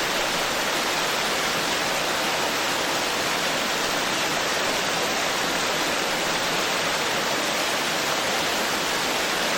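Forest stream flowing over rocks, a steady full rushing of water.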